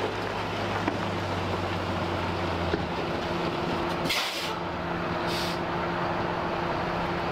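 A large vehicle's engine idling steadily, with two short hisses of air about four and five seconds in, like air brakes releasing.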